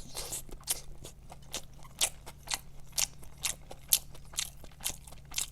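Close-up chewing of crispy fried chicken from KFC's Chizza, with short crunches about three times a second.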